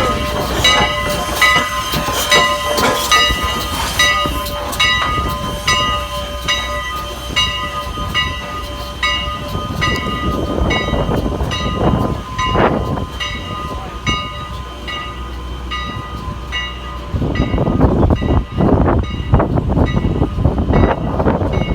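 Steam locomotive 89's bell ringing about twice a second over the rumble of the train. About three-quarters of the way through the ringing stops and a louder rush of train noise takes over.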